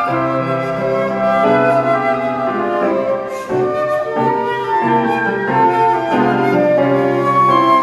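Flutes playing a slow melody over held lower notes, several parts sounding together.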